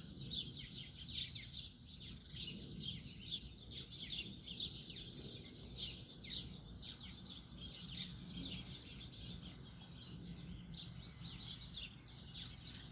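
Many small birds chirping at once: a dense, continuous chatter of short, quick, high chirps that fall in pitch, over a faint steady low hum.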